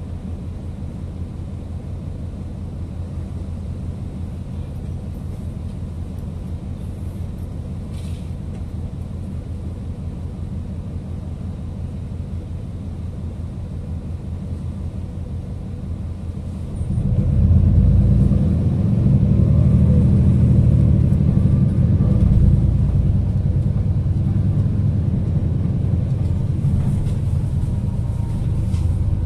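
City bus running, heard from inside the cabin: a steady low engine rumble that grows noticeably louder about seventeen seconds in and stays loud.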